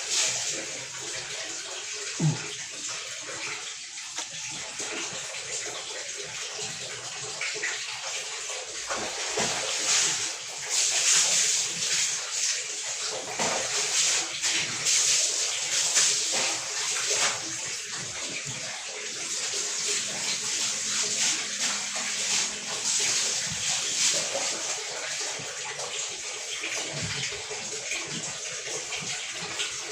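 Water running and splashing, louder and more broken for several seconds in the middle.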